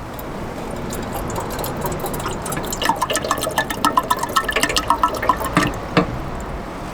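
Hot water being poured into a yutanpo hot water bottle, splashing and gurgling as it fills for about three seconds from near the middle, over a steady background hiss. A single knock follows just before the end.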